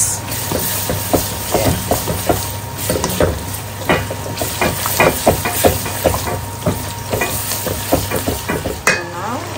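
Onions, green chillies and spices frying in hot oil, with a spatula stirring and scraping against the pot in quick, frequent strokes over a steady sizzle.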